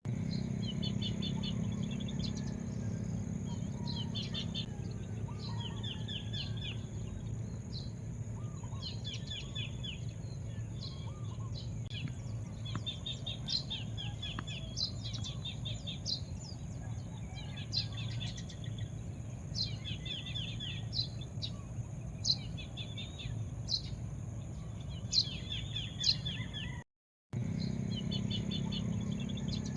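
Wild birds chirping and calling over a steady low hum. The calls are repeated quick trills of chirps and sharp single high notes, and the sound cuts out for a moment near the end.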